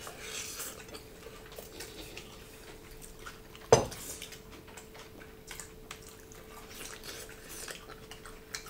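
Small clinks of china plates and bowls and quiet eating noises from people eating by hand at a table. About four seconds in comes one sharp knock of crockery, over a faint steady hum.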